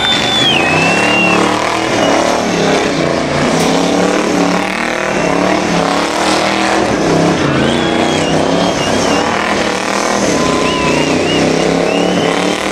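American V8 engine revving hard and wavering up and down in pitch through a burnout, with short bursts of tyre squeal.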